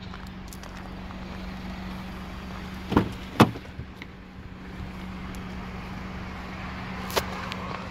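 Honda CR-V's 2.0-litre petrol four-cylinder engine idling with a steady hum. About three seconds in come two quick clunks as a rear door is opened, and a short click near the end.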